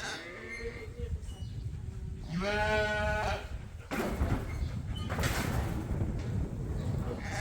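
Sheep bleating: a fainter bleat near the start, then one long, loud bleat of about a second near the middle. After it comes a few seconds of rough noise with a low rumble.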